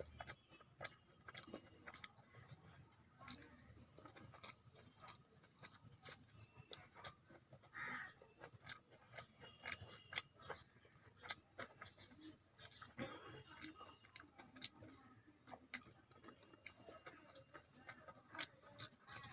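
Person eating: wet chewing with many irregular soft mouth clicks and smacks.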